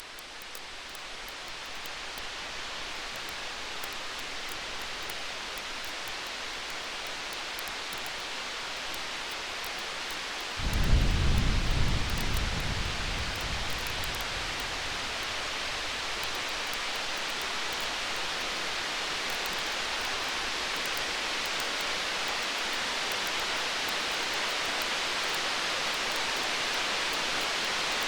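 Steady hiss with faint scattered crackles fading in over the first few seconds. About eleven seconds in, a low rumble of distant thunder swells and dies away over two or three seconds.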